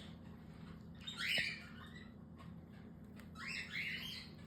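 Baby cockatiel chicks giving short, faint, raspy begging squawks while being syringe hand-fed: one call about a second in and a quick run of calls near the end.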